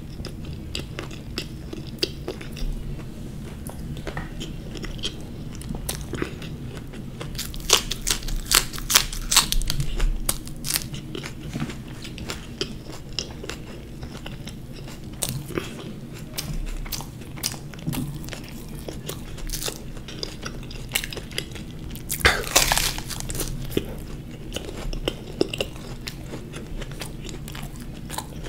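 Close-miked chewing and crunching of deep-fried samosa pastry, with crisp crackles and wet mouth sounds. There are louder runs of crunching about 8 to 10 seconds in and again around 22 seconds.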